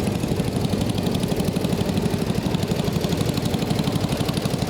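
Tractor engine idling with a steady, even beat.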